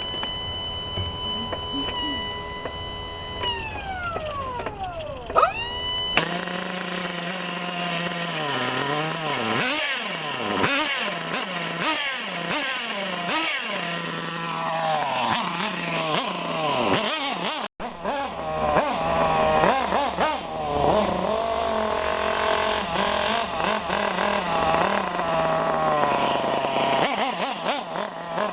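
Radio-controlled Thunder Tiger cars' small motors running and revving. A high steady whine falls away a few seconds in, then several motors rise and fall in pitch over each other as the cars speed up and slow down.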